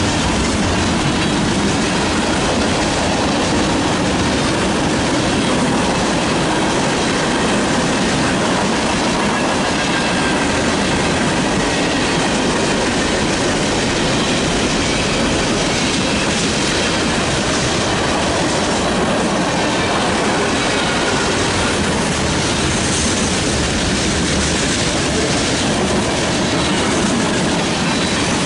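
Long freight train of hoppers, boxcars and tank cars passing close at speed: a steady, loud rumble and rattle of steel wheels on rail, with faint high wheel squeals that drift slightly in pitch.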